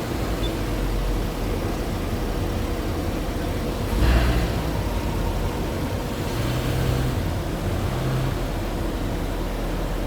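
Car engine and exhaust running amid street noise, with a sudden louder surge about four seconds in followed by a few seconds of low engine notes.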